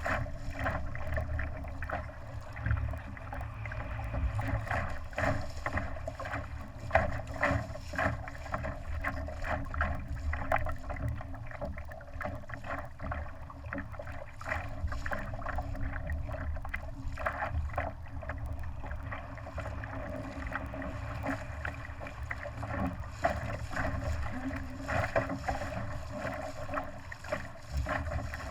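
Water splashing and slapping against a sailing dinghy's hull under way, in short irregular bursts over a steady rush, with wind rumbling on the microphone.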